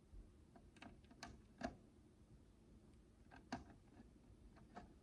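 Faint, scattered clicks and light taps of micro bricks being handled and pressed together, with two sharper clicks about one and a half and three and a half seconds in.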